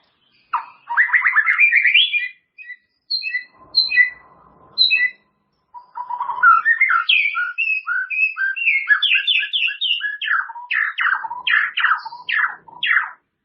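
White-rumped shama (murai batu) singing. It gives a quick rising run of notes, a few separate clear whistles, and then a long varied phrase that ends in a string of sharp sweeping notes.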